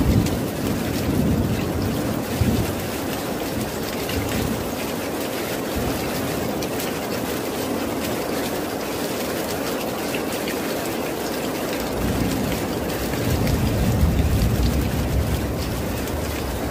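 Steady heavy rain, with low rolling thunder rumbling in the first few seconds and again from about twelve seconds in, swelling loudest a little later.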